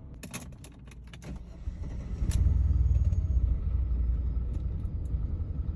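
Mercedes-Benz engine running rough, an uneven low rumble that swells about two seconds in after a few sharp clicks. The owner blames a dislodged airbox upsetting the air-fuel mixture.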